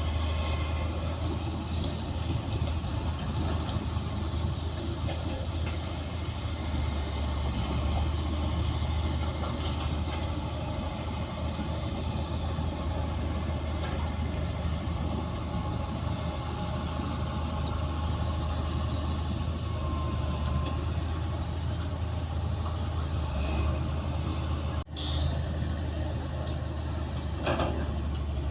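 Heavy diesel engines of a bulldozer and dump truck running steadily at a worksite, a constant low drone. It breaks off for an instant near the end.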